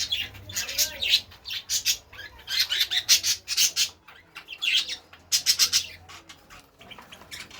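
Cage birds squawking and chirping in several quick, high-pitched bursts, which fade out near the end.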